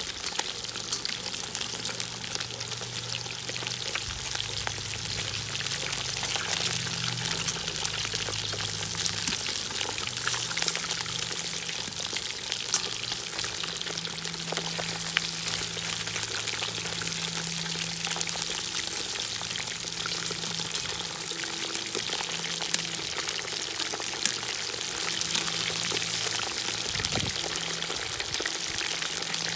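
Food frying in hot sunflower oil in a cast-iron kazan, a dense steady sizzle full of small crackles and pops.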